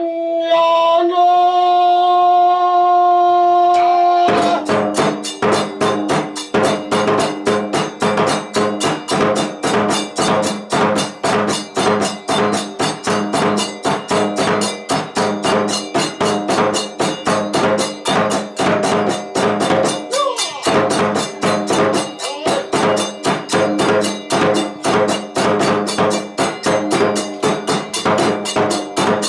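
Kagura festival music. A long held note, stepping up slightly about a second in, gives way at about four seconds to a fast, steady beat of drum and hand cymbals with a melody over it.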